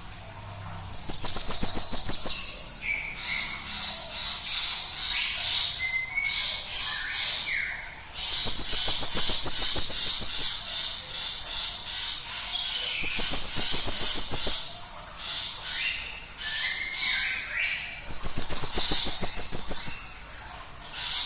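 Cinereous tit (gelatik batu) calling: four loud, rapid, rattling high-pitched bursts, each lasting a second and a half to two seconds, with softer chirps and short whistled notes in the gaps.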